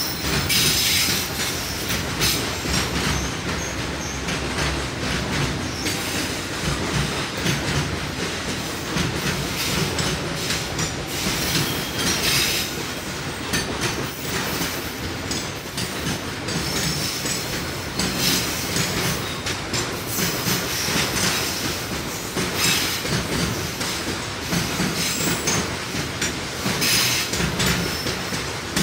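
Container freight train rolling past close by: a steady rumble of flatcar wheels clicking over the rail joints, with occasional high-pitched wheel squeal.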